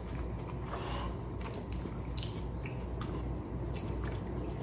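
A person chewing a mouthful of food close to the microphone, with scattered short wet mouth clicks, over a low steady hum.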